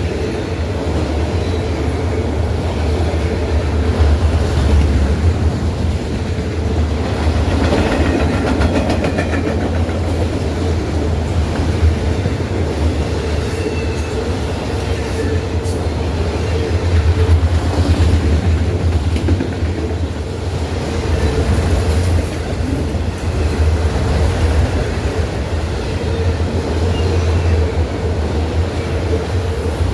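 Freight train cars rolling past, a continuous heavy rumble with wheel clatter on the rails.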